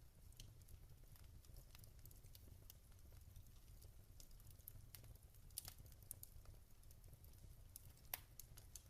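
Wood fire in a fireplace crackling softly: scattered small crackles over a low rumble, with a few sharper pops around the middle and near the end.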